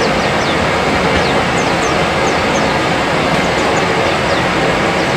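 White-eye (pleci) calls: short, high chirps that fall in pitch, scattered irregularly over a loud, steady rushing noise.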